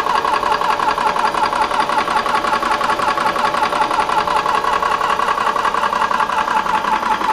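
Benjamin Traveler portable high-pressure air compressor running steadily with a fast, even pulsing, partway through filling a PCP air rifle, at around 2,300 to 2,500 psi.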